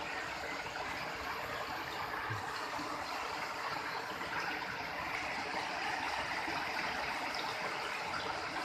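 Water of a jungle river rushing steadily, an even hiss with no breaks.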